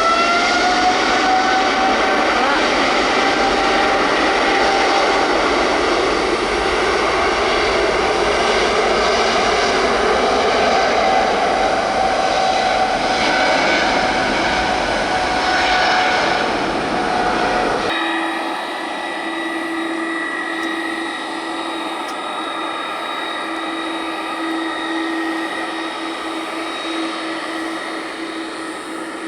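Jet airliner engines running loud, with a whine that rises in pitch at the start and then holds steady over a heavy rushing noise. About 18 seconds in the sound changes abruptly to a quieter steady hum with a held tone.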